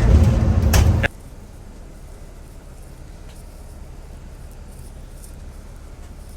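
A loud, noisy stretch cuts off abruptly about a second in. It gives way to a steady low rumble with a hum, like vehicle cabin noise.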